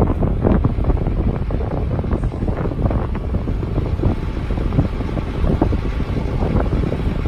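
Wind buffeting the microphone over the steady running of a 2003 International 7400 bucket truck's engine, which powers the boom's hydraulics.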